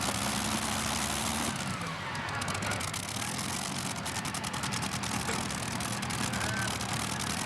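A tractor-pulling machine's engine running with a steady deep drone whose pitch shifts down about a second and a half in.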